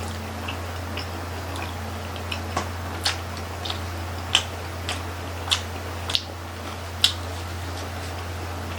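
People chewing grilled chicken intestine (isaw), with irregular wet mouth smacks and clicks, a few louder ones in the middle. A steady low hum runs underneath.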